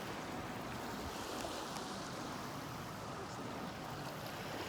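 Steady wash of small waves on a lakeshore beach, an even hiss with no distinct events.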